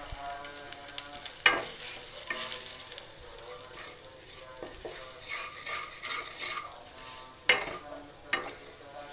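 Wooden spatula stirring an onion-garlic masala with freshly added dry spices as it fries and sizzles in mustard oil in a wok. The spatula knocks sharply against the pan a few times.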